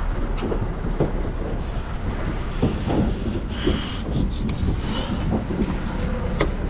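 Scania R620 V8 truck engine idling with a steady low hum, with scattered knocks and a brief hiss about three and a half seconds in.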